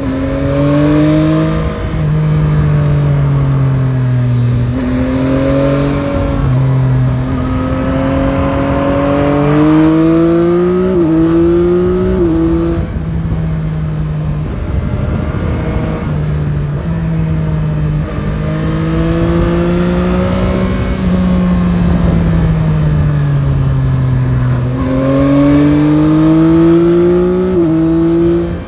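Yamaha Tracer 9 GT's CP3 three-cylinder engine pulling hard through the gears, its pitch climbing several times with quick drops at each up-shift, then falling as the rider eases off for the bends. Wind rush runs under the engine note throughout.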